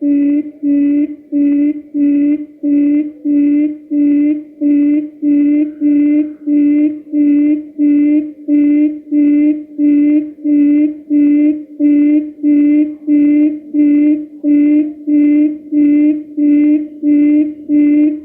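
Quail lure call for trapping: a short low hoot repeated steadily and evenly, about one and a half calls a second.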